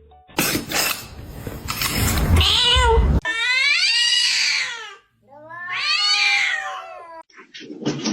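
A cat gives long, drawn-out meows: two loud calls from about three seconds in, each rising then falling in pitch. Before them there is a shorter call over a noisy clatter.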